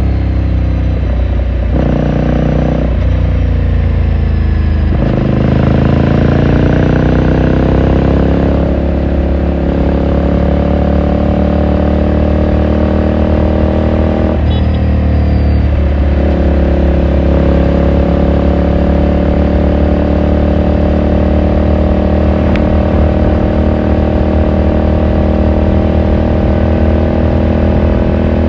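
2018 Ducati Scrambler Sixty2's air-cooled L-twin engine and exhaust heard on board while riding. There are a few quick gear changes in the first seconds, then the engine note climbs as the bike pulls. A brief break in the note comes about halfway, followed by steady cruising.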